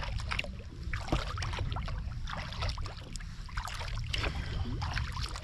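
Kayak paddle strokes: the blades dipping in and lifting out of the water with irregular splashes and drips, over a steady low rumble.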